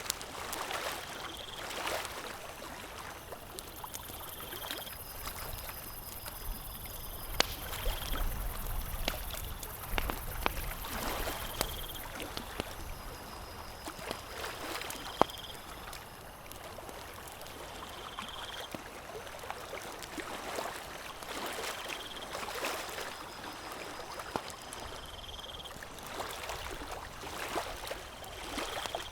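Campfire crackling with sharp pops, over small waves lapping at a lakeshore that swell and fade every few seconds. A short high chirp repeats every couple of seconds.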